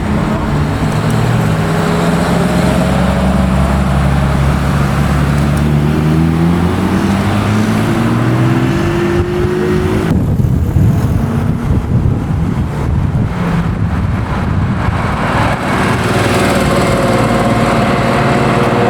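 Classic car engines running: one engine rises steadily in pitch as it accelerates for several seconds, then the sound changes suddenly to a rough low rumble, and a few seconds before the end another engine runs at a steady pitch.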